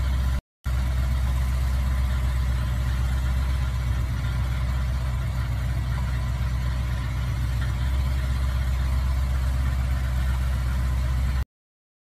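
A car engine idling steadily with a deep, even rumble. It cuts out for a moment about half a second in and stops suddenly about a second before the end.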